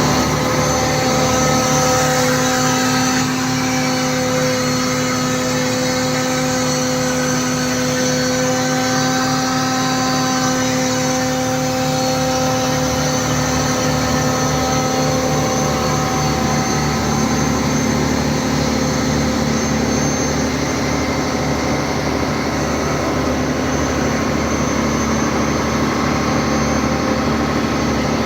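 Steady machinery drone with several held tones, typical of a ship's engine room while a portable crankpin grinding machine works on the main engine's crankshaft.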